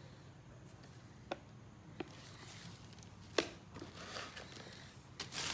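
Fireworks packages being handled: three light sharp knocks, the third the loudest, then rustling and small taps near the end as items are moved about.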